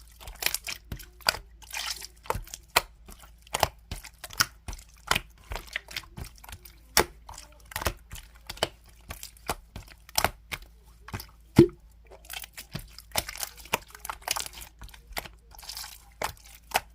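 Red slime being squished and pressed by hand, making many sharp, irregular wet clicks and pops, with a few short stretches of sticky crackling.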